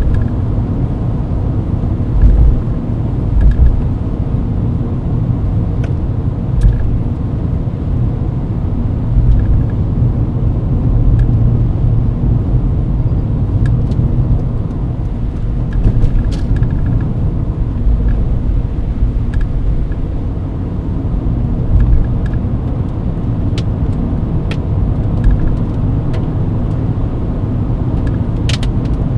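Mercedes-Benz W124 driving at highway speed on a wet road: a steady low rumble of engine and tyres, swelling a little now and then. Scattered sharp ticks sound over it throughout.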